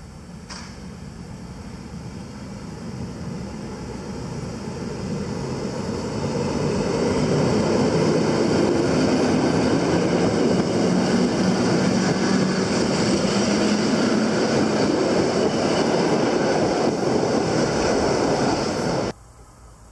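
A train passing through a station: the rolling noise of wheels on rails builds over about seven seconds to a loud, steady rumble, then cuts off abruptly near the end.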